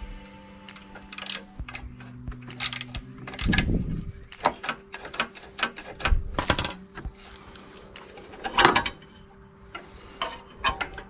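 Irregular metal clicks and knocks of hand tools and parts being handled while the choke and throttle cables are unhooked at the mower's engine.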